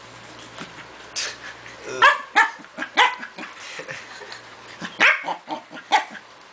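Pembroke Welsh corgi giving short, high, strained barks and yips during play tug of war, in two clusters starting about two seconds in.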